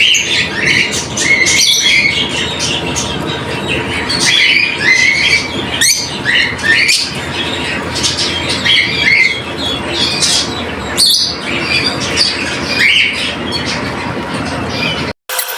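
A crowd of caged birds squawking and chirping over one another in a constant, loud chorus of short harsh calls. The sound cuts off abruptly near the end.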